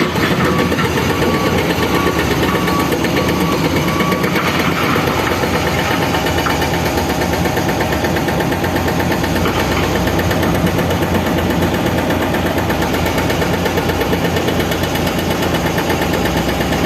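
Heavy earth-moving machine's diesel engine running steadily with a dense rumble. A reversing alarm beeps at an even pace over it and stops about four seconds in.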